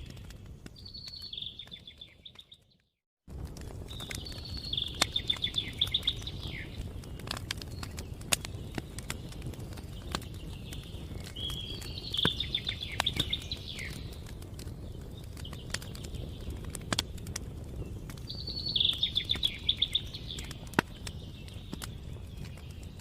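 A songbird singing short phrases of rapid notes, high and bright, repeated about every six to seven seconds over a steady outdoor background with scattered clicks. The sound cuts out completely for a moment about three seconds in.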